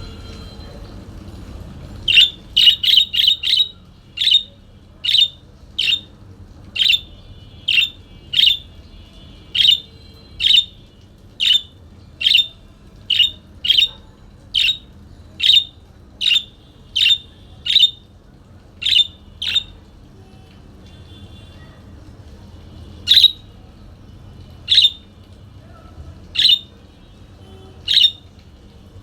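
A parakeet giving short, sharp squawking calls over and over. A quick run of about six comes first, then single calls at an even pace of more than one a second. After a short pause the calls come more slowly, one every second or two.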